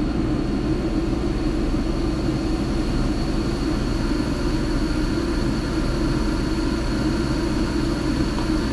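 Steady background drone of running shop machinery: a low hum with a faint, thin high-pitched whine above it, unchanging throughout.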